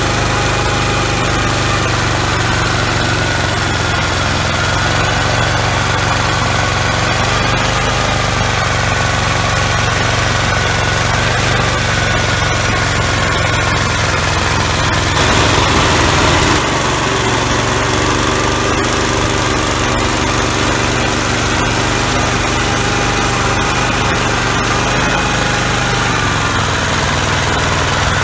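Gravely walk-behind tractor engine running steadily under the MA115 Deluxe snowblower, its pitch wavering slightly. About fifteen seconds in, a louder rushing noise lasts for about a second and a half.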